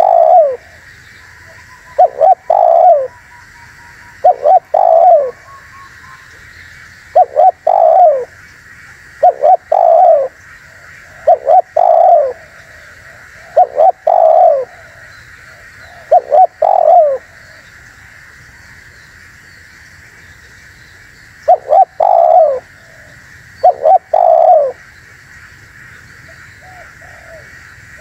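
Spotted dove (tekukur) cooing: a short phrase of falling coos, each about a second long, repeated about every two seconds, with a pause of a few seconds between repeats about two-thirds of the way through. A steady hiss runs underneath.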